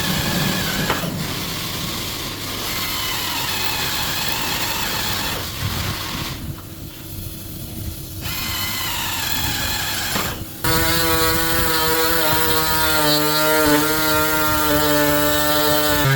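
Power tools working on a car's sheet-metal body, in several short stretches that change abruptly; about ten seconds in, a tool's motor cuts in with a steady whine.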